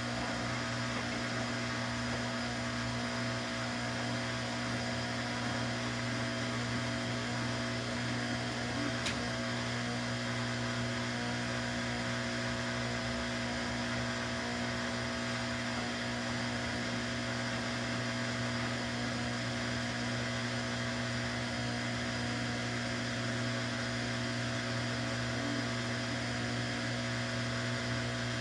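Samsung washing machine running on its normal cycle: a steady motor hum with no rhythm or change in pitch, and one brief click about nine seconds in.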